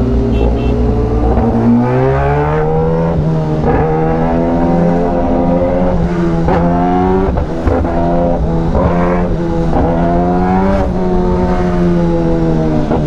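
Inline-four superbike engine accelerating and easing off repeatedly while riding in traffic, its pitch climbing and dropping back with each gear change or throttle lift.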